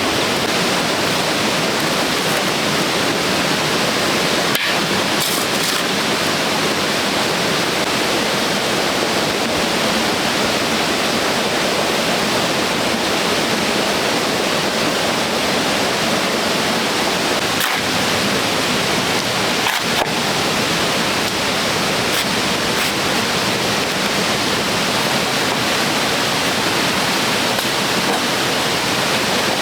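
A steady, even rushing of water with no pitch.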